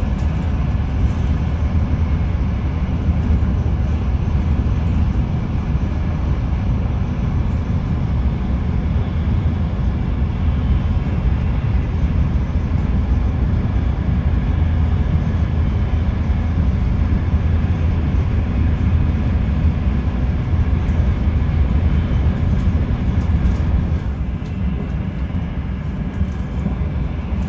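Steady low rumble of a Frecciarossa ETR 500 high-speed train running, heard from inside the passenger coach. The level dips slightly about 24 seconds in.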